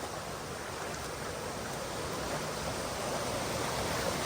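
Mountain stream water rushing over rocks: a steady wash that slowly grows louder.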